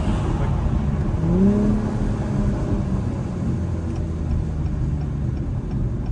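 2021 Acura TLX Type S's turbocharged 3.0-litre V6 engine and exhaust heard from inside the car with the windows open, the engine note rising briefly about a second in and then holding steady. A light, evenly spaced ticking starts about four seconds in.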